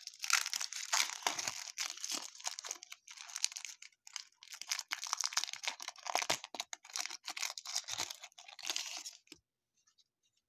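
Baseball card pack wrappers being torn open and crinkled, with cards rustling as they are handled, in a quick run of rustles that stops about a second before the end.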